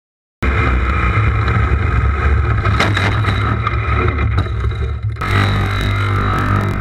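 Yamaha Super Ténéré's parallel-twin engine running with wind noise on the onboard camera microphone, cutting in suddenly about half a second in. A few clicks come near the middle, and the sound changes abruptly about five seconds in, as the bike goes down in a low-side crash.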